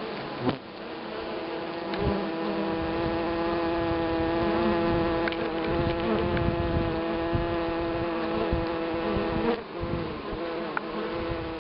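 Honeybee buzzing, a steady drone at one pitch that wavers briefly near the end. A couple of short knocks come in the first two seconds.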